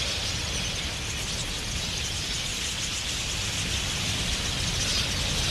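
A huge flock of wild budgerigars in flight, their massed chirping merging into a steady, dense hiss.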